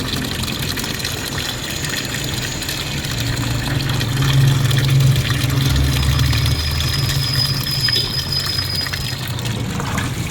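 Automatic washing machine filling: water running from the inlet into the tub, with a steady low hum.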